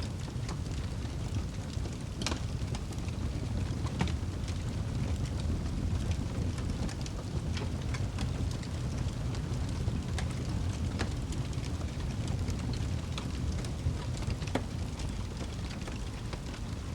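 Wood fire burning in a fireplace: a steady low rumble of the flames with scattered sharp crackles and pops of the burning wood.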